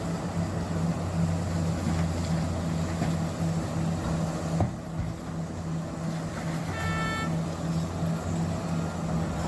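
Big diesel engines of a Komatsu PC-3000 mining excavator and Cat 777 haul trucks running with a steady low drone. A single knock comes a little before five seconds in, and a short horn beep about seven seconds in.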